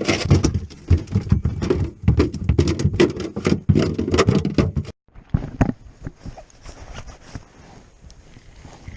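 A rapid, irregular run of sharp knocks and clatter for about five seconds, stopping abruptly, then fainter scattered clicks.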